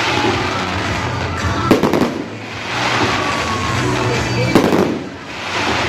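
Fireworks going off: sharp bangs about two seconds in and again past four and a half seconds, with crackling between them, over music.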